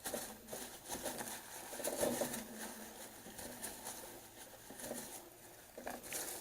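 Kitchen paper rubbing and wiping inside an espresso machine's group head, around the portafilter gasket: a faint, irregular rustling.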